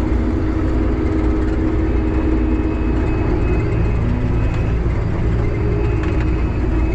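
Combine harvester running steadily while harvesting soybeans, heard from inside the cab: a constant low engine rumble with a steady hum of the threshing and feeding drives.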